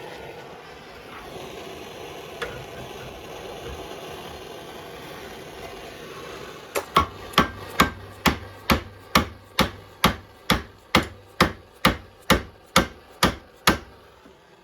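A torch burns with a steady hiss for about the first half. Then a hammer strikes metal about twice a second, a heated steel steering coupler being knocked onto a chilled shaft that it will not slide onto freely.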